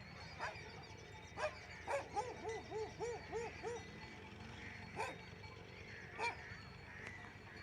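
Dog barking: a few sharp single barks, a quick run of about seven short yips in the middle, then two more barks spaced apart.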